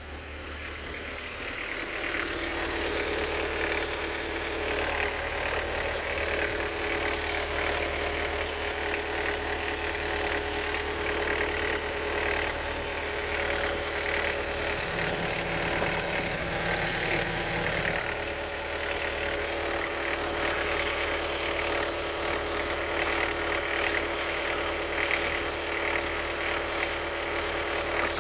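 Citroen Berlingo's 1.9-litre four-cylinder diesel (WJY) idling steadily with a diesel clatter, run as a test of a used engine.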